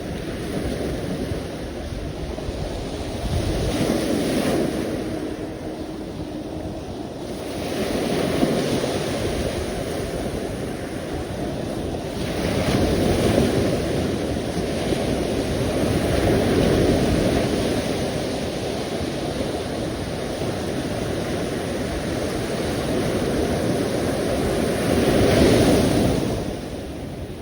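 Sea waves washing onto the shore, swelling and falling back every few seconds, with the loudest wash near the end.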